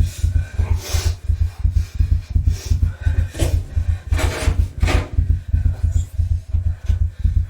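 Film sound design: a fast, low, thudding pulse of about five beats a second, overlaid by several loud rasping swooshes.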